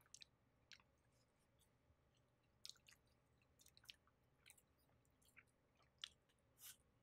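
Faint close-miked chewing of naan dipped in palak chicken, heard as short, irregular mouth clicks.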